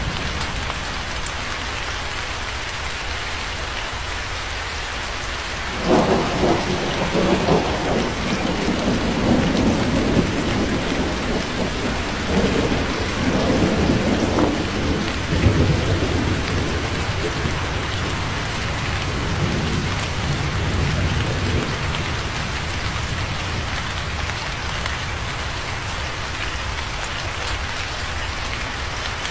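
Steady heavy rain hissing on a surface, with a roll of thunder that breaks about six seconds in, rumbles with crackles for ten seconds or so and fades away over the following several seconds.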